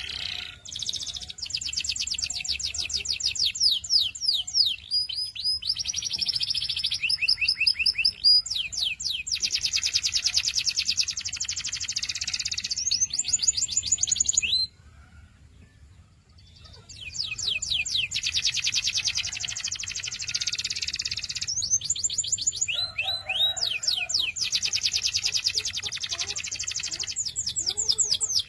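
Canary singing long, fast trills and rolls of rapidly repeated high notes, breaking off for about two seconds around the middle before starting again.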